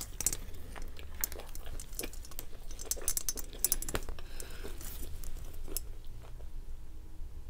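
Close-up mouth sounds of someone chewing a bite of cheeseburger: wet clicks and smacks, thinning out after about six seconds.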